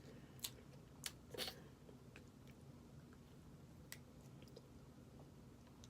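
Faint chewing of snow crab meat, with a few short sharp clicks, most of them in the first second and a half.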